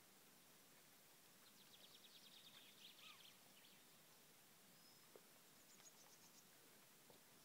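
Faint birdsong over a steady low hiss: a rapid, high trill of short notes starting about one and a half seconds in, then a brief whistle and a second, higher trill around six seconds in.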